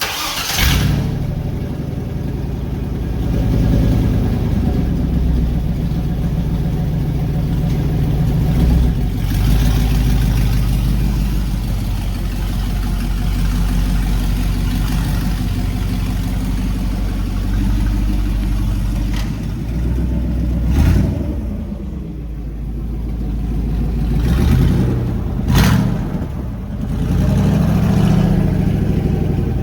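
1996 Chevy truck's engine running through a freshly fitted full straight-pipe exhaust, loud, with several revs rising and falling over a steady idle.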